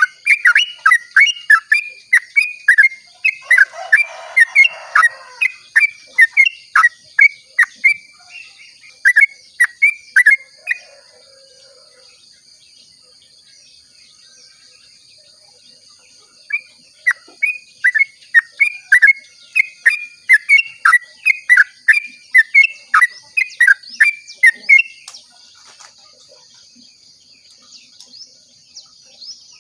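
Yellow-vented bulbul (trucukan) singing its rapid 'ropel' song: long runs of short, quickly repeated falling whistled notes, about three a second, with a pause of several seconds between runs. Steady high-pitched tones run underneath throughout.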